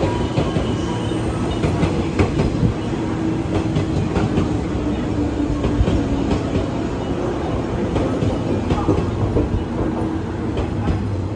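JNR 113 series electric train rolling past along the platform: a steady rumble of the running gear, with the wheels clacking over rail joints.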